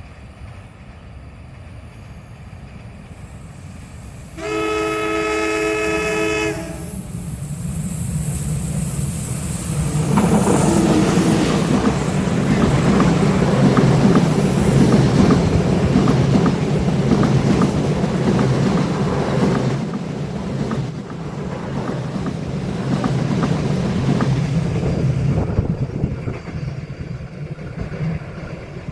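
A train horn sounds one chord-like blast of about two seconds. From about ten seconds in the train passes, with the rumble and clickety-clack of its wheels on the rails, fading near the end.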